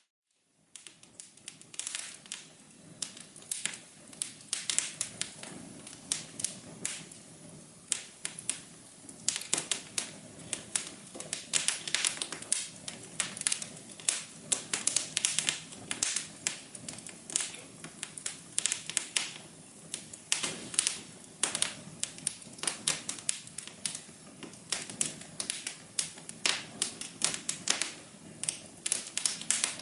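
Wood fire crackling in a fireplace: many irregular sharp pops and snaps over a steady soft hiss, starting just after a brief gap at the very beginning.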